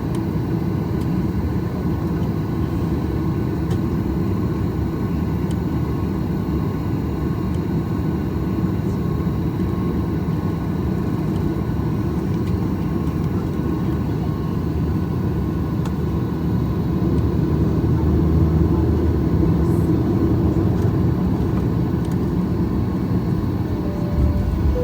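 Boeing 737-800 cabin noise on the ground, a steady rumbling hum from its CFM56 engines and airframe while the jet taxis. It grows a little louder past the middle, and a short tone sounds near the end.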